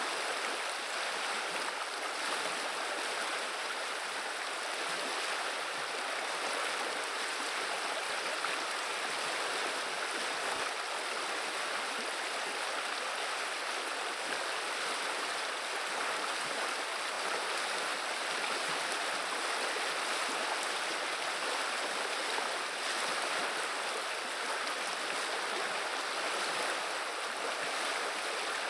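Running river water babbling steadily, an even rush with no breaks.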